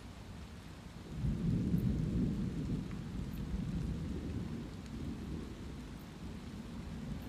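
Rolling thunder over steady light rain: a deep rumble swells about a second in and slowly fades, with the soft hiss of rain throughout.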